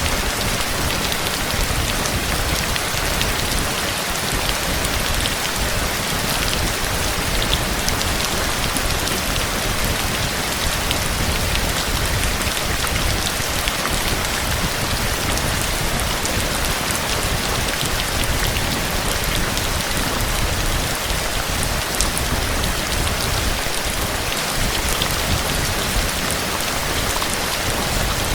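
Steady rain falling hard, an even hiss with scattered sharp drop ticks throughout.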